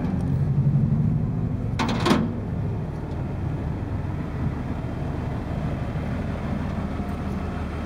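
A vehicle engine running steadily with a low rumble, with a short sharp noise about two seconds in.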